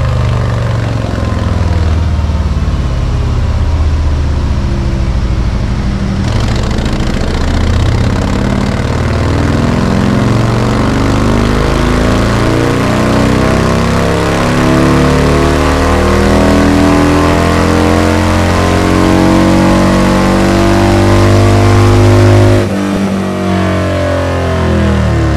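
Harley-Davidson Sport Glide's Milwaukee-Eight V-twin under a full-throttle dynamometer pull, its exhaust note climbing steadily through the revs for about twenty seconds. About twenty-two seconds in the throttle snaps shut and the note drops suddenly to a lower run-down.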